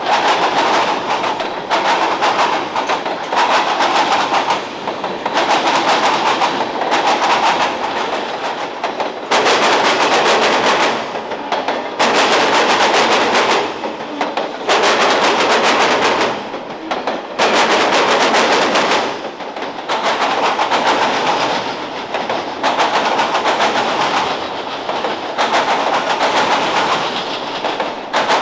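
Freight train cars rolling past, their wheels clattering over the rail joints in runs of rapid clicks that come again every couple of seconds as each car goes by.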